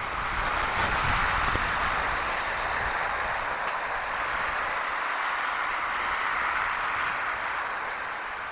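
Storm wind rushing steadily, with low gusts buffeting the microphone in the first few seconds.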